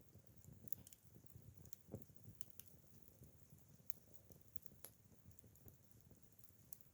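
Acacia firewood burning in a campfire: a faint low rumble of flames with scattered sharp crackles and pops, the loudest about two seconds in.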